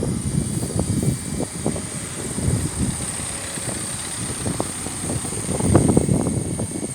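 A train passing the level crossing: a low rumble with irregular knocks, over a steady high-pitched whine.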